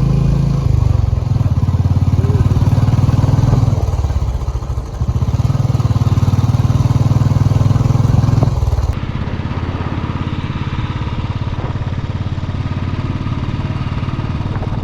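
A vehicle engine running steadily on the move, with a fast low pulse. It eases off briefly about four seconds in, and the sound turns quieter and duller about nine seconds in.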